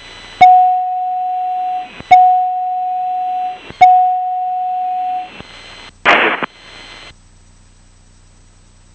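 Three long electronic beeps of the same pitch, each about a second and a half long and evenly spaced, from a cockpit alert tone; a short burst of radio noise follows about six seconds in.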